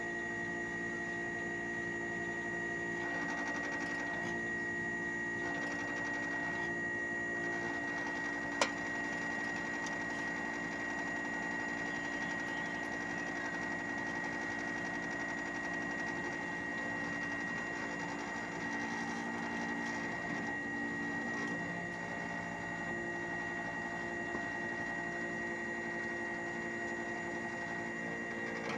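Hitachi 1-ton split AC outdoor unit running: a steady mechanical hum with a constant high-pitched whine over it, and a single sharp click about nine seconds in.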